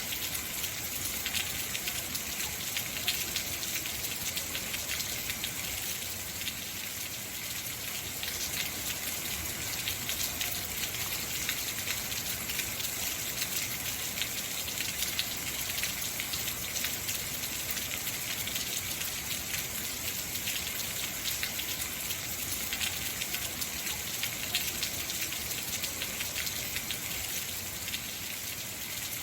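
Heavy rain falling steadily, a dense hiss of raindrops with many fine pattering hits on surfaces.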